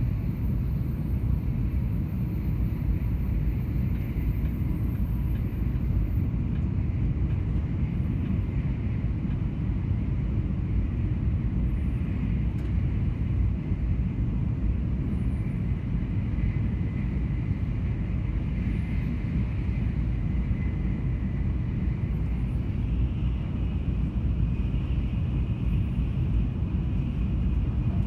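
Steady low rumble of a vehicle under way, with a faint thin whine above it.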